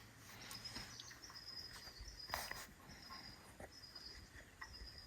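Faint outdoor background of a cricket chirping in short, high trills repeating about once a second, with a sharper tap about halfway through.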